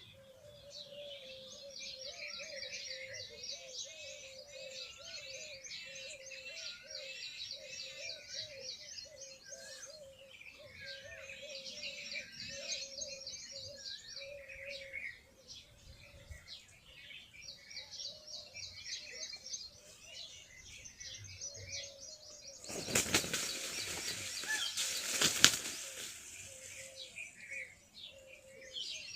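Small birds chirping and trilling in a continuous chorus. About three seconds of loud wing flapping comes near the end.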